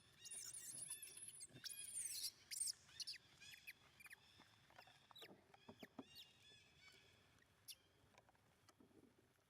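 Baby monkey squeaking: a quick run of high, wavering squeals in the first three seconds, then fainter short calls and small clicks that die away.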